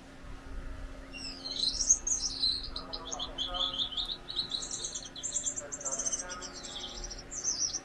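Gouldian finch singing: a fast run of high, rapidly repeated chattering notes that starts about a second in and carries on, the pitch stepping up and down.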